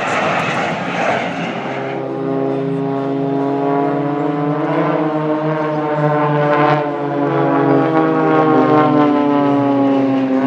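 An aircraft flying past: a loud rushing noise for about two seconds, then, after an abrupt cut, a steady pitched engine drone whose pitch drops in the second half as the aircraft goes by.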